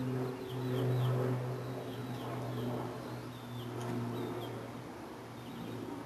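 Several short, high, falling chirps from small birds around a backyard seed feeder, over a steady low hum of a few tones that swells and fades.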